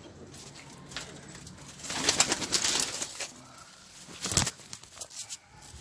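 Domestic pigeons cooing, with a rustling stretch about two seconds in and a sharp knock about halfway through.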